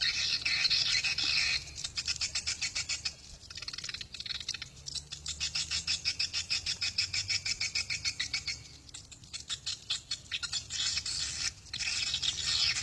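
Swiftlets twittering: dense bursts of high, shrill chirps alternating with long runs of rapid, evenly spaced clicks.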